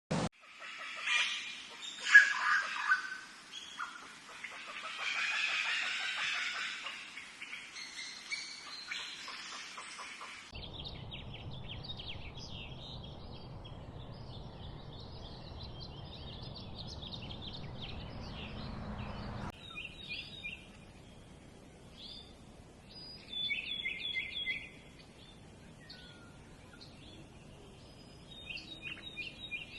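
Birds chirping and calling in a series of short, high chirps and trills. Two abrupt changes in the background, about ten seconds in and again near twenty seconds, mark cuts between clips. The loudest, densest calling comes in the first ten seconds, and a low steady rumble lies under the middle part.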